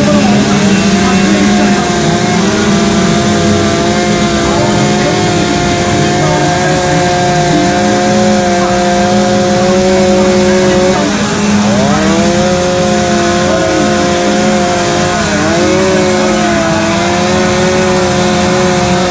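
Two or more chainsaws running at once while carving wood, their engines holding steady pitches. One saw's pitch drops and climbs back about eleven seconds in, and again briefly near fifteen seconds, as it bogs under load in the cut.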